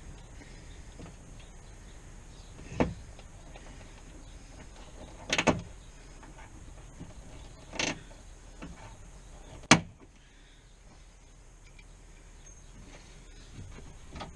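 A few short, sharp knocks and clicks of tools and parts being worked inside a car door, the loudest a sharp crack about ten seconds in.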